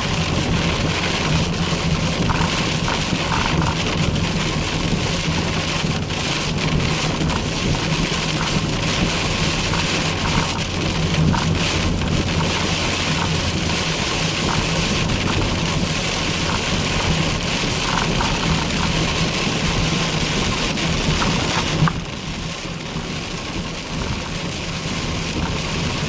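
Rain pelting a moving car, over a steady low hum from the engine and road. The rain noise eases about 22 seconds in.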